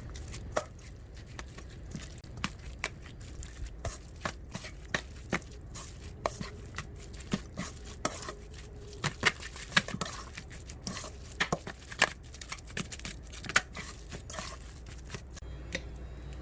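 Irregular sharp taps and knocks, some single and some in quick runs, busiest in the middle stretch.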